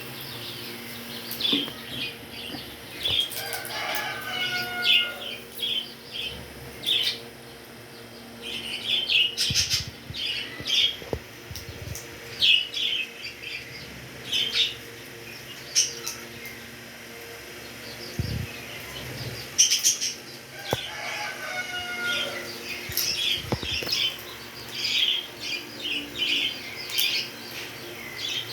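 Pet birds chattering in many short, high chirps, with a lower gliding whistle about four seconds in and again near twenty-one seconds.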